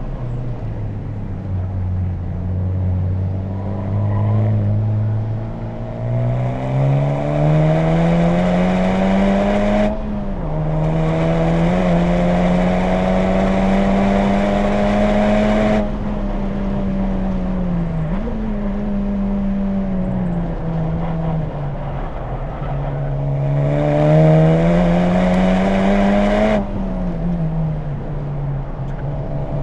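2020 Honda Civic Type R's turbocharged 2.0-litre four-cylinder, through an HKS Legamax Premium exhaust, driven hard on track. The revs climb under throttle, then drop sharply at an upshift about ten seconds in, and climb again. About halfway through the driver lifts off and the revs fall, with short blips as the car downshifts. Near the end the revs build again to another upshift and climb once more.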